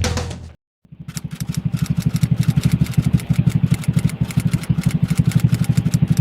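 A Honda Zoomer-X's 110cc single-cylinder scooter engine idling through an aftermarket MT8 racing exhaust pipe: a loud, steady, fast pulsing exhaust note that starts about a second in, after the tail end of music fades out.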